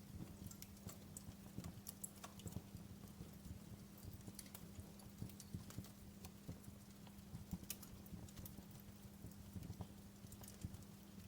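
Wood fire crackling in a fireplace: faint, irregular snaps and pops at uneven intervals over a steady low hum.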